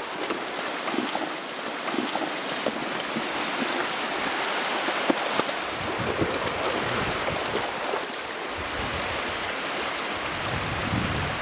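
Shallow river water running and splashing as horses wade across it, with scattered small splashes. From about two-thirds of the way in, wind buffets the microphone with a low rumble.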